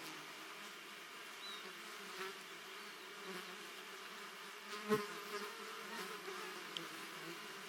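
Flying insects buzzing steadily in a summer meadow, with one sharp click about five seconds in and a few fainter ticks.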